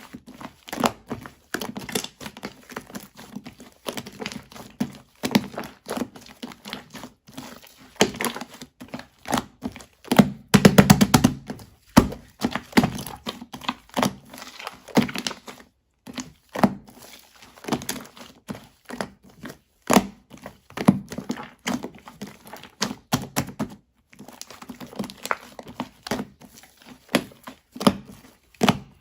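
Fluffy shaving-foam slime being squeezed, poked and stretched by hand, giving a dense, irregular stream of small crackling pops and clicks, with a louder burst of popping about ten seconds in.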